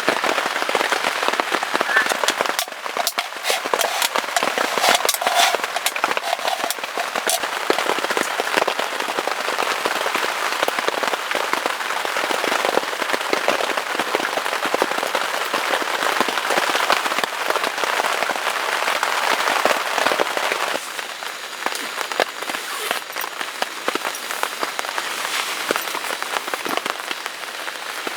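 Heavy rain falling, a steady hiss with a dense crackle of drop hits; it eases slightly about three-quarters of the way through.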